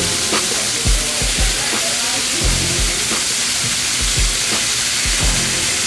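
Chicken breasts sizzling on a hot flat-top griddle, a steady frying hiss, over background music with a deep bass beat.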